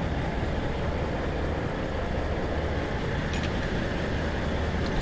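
A diesel truck engine running steadily at idle, a low even rumble, with a couple of faint clicks near the end.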